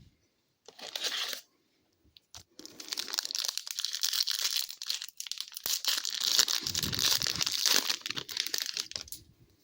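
Hockey card pack wrapper being torn open and crinkled by hand: a short rustle about a second in, then several seconds of continuous crackling and crinkling of the wrapper.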